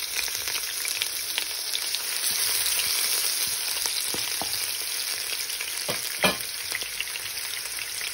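Garlic-ginger paste sizzling steadily in hot oil with whole spices in a pan. It is stirred with a slotted spatula, giving a few short knocks, the loudest about six seconds in.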